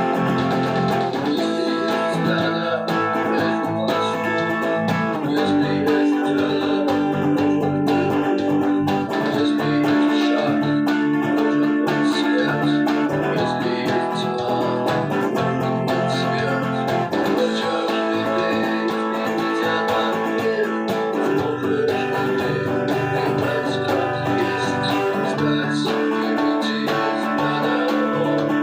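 Guitar playing a melodic instrumental tune, with some notes held for several seconds over a steady accompaniment.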